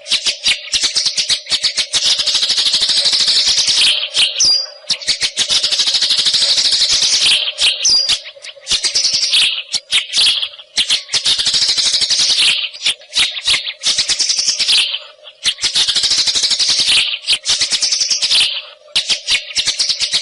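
White-rumped shama (murai hutan) singing a run of harsh, rattling phrases of rapid clicks, each lasting a few seconds with short breaks between, and a couple of brief whistled notes mixed in. A faint steady hum runs underneath.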